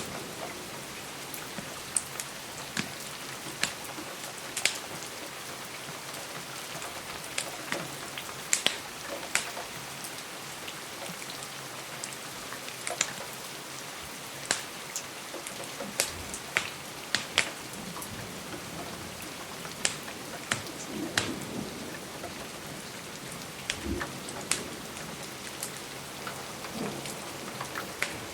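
Steady rain with irregular sharp pops and crackles of a wood fire, sometimes several in quick succession.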